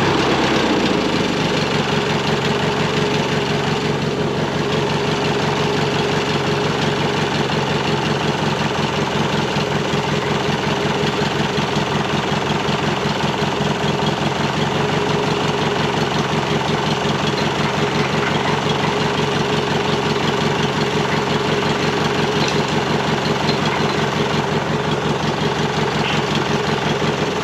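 Garden tractor engine running steadily at idle on a test run after repair, with an even, rapid firing pulse.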